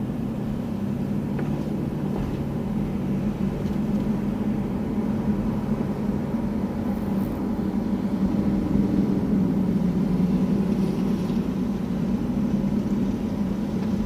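Car running on the road, heard from inside the cabin: a steady low engine and road hum that grows a little louder about halfway through.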